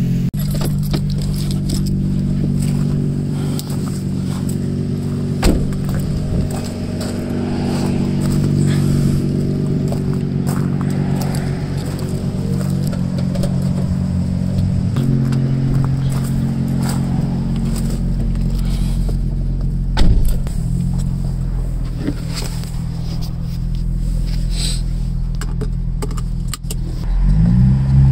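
Nissan VQ35DE 3.5-litre V6 idling steadily after its first start in a year and a half of sitting, with a few sharp clicks. Near the end the engine is blipped briefly, its pitch rising and falling.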